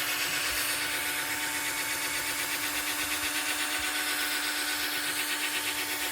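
Cordless drill running steadily, spinning a polishing pad with polishing paste against a headlight lens; its battery is running low.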